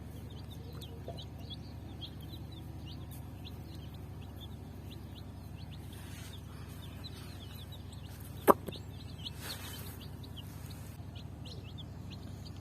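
A group of baby chicks peeping continuously, many short high calls that fall in pitch, over a steady low hum. One sharp knock about eight and a half seconds in.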